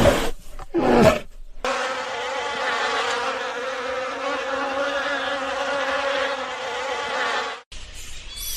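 A bee buzzing with a steady drone for about six seconds, preceded by two short cries that fall in pitch in the first second and a half.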